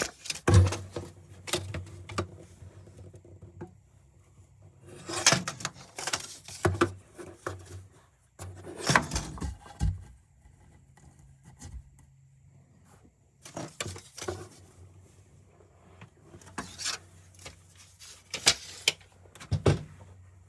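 Irregular knocks, clatter and scraping of building materials being handled and set in place, with pauses between bursts and a faint low hum at times.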